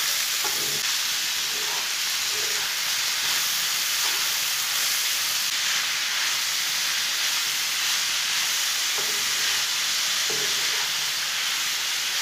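Chopped chicken and vegetables sizzling in hot oil in a frying pan as they are stirred with a wooden spatula: a steady sizzle with a few light scrapes of the spatula against the pan.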